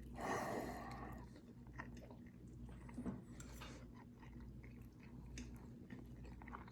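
Faint chewing and mouth sounds of people eating bacon explosion, a bacon-wrapped sausage roll, with scattered small clicks.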